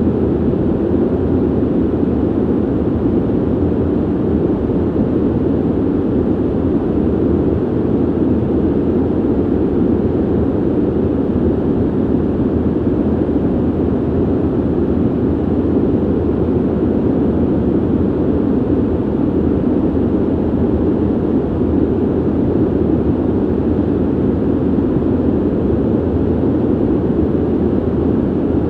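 Steady ventilation noise: an even, deep rush of air, strongest in the low-middle range with little high hiss, unchanging throughout.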